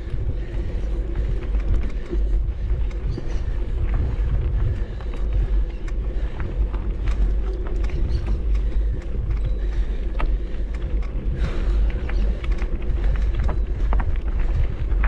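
Steady low rumble of a waterfall's rushing water, unbroken, with faint scattered crackles.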